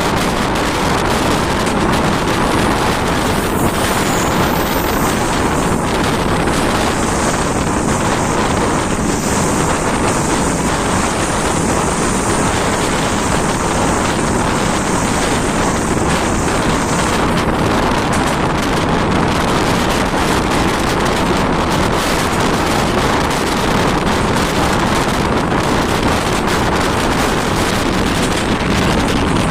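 Steady rushing noise of a passenger train on the move, wheels running on the rails, with wind buffeting the microphone.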